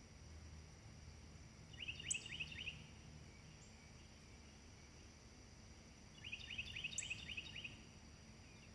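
A songbird singing two short phrases, each a quick run of five or six falling chirps, over faint steady background noise.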